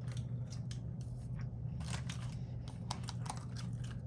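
Someone chewing food close to the microphone: a run of small irregular clicks and crunches over a steady low hum.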